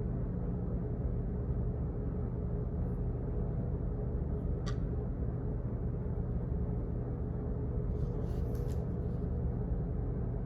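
Steady low office background hum, with one short click about halfway through and a few faint clicks near the end.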